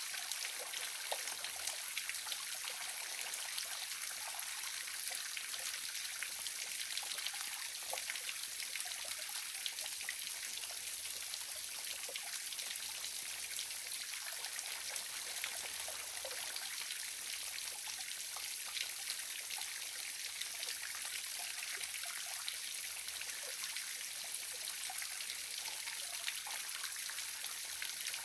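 Waterfall running steadily: an even, hissing rush of falling water flecked with many small splashes.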